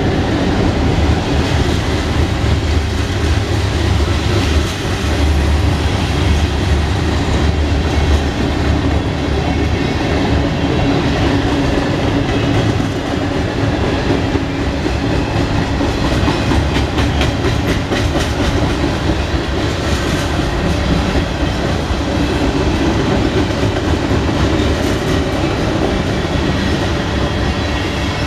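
Freight cars of a mixed freight train rolling past: a loud, steady rumble of steel wheels on rail, with clicking as the wheels cross rail joints, most marked around the middle.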